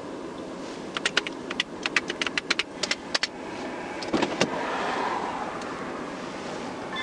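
Rapid metallic clicking and jingling, like keys or equipment being handled, for about two seconds starting a second in; a couple of knocks follow, then a steady rush of outside noise swells up.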